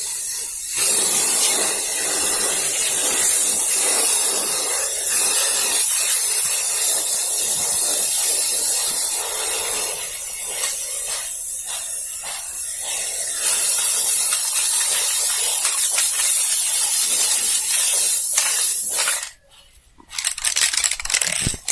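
Aerosol spray-paint can spraying in a long continuous hiss that eases a little midway and cuts off a couple of seconds before the end, followed by a few short clicks.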